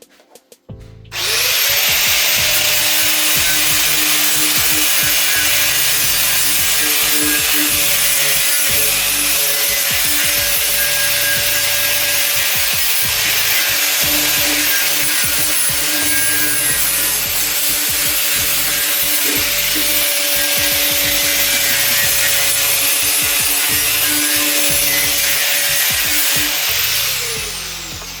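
Electric power tool running: its motor whine rises as it starts about a second in, holds steady under a loud, even noise for most of the time, then falls in pitch as it winds down near the end.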